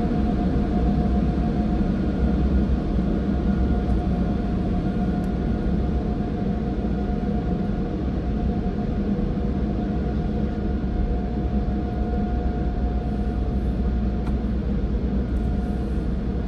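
Automated tunnel car wash machinery running with a steady roar and a constant whine, heard from inside the car.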